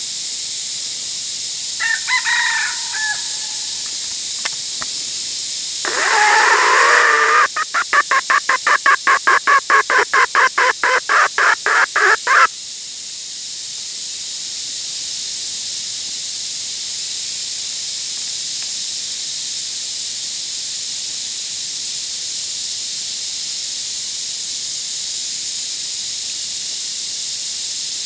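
Red junglefowl rooster calling: a short call, then a loud, drawn-out crow that breaks into a rapid run of about four clucks a second for some five seconds. A steady high hiss lies underneath.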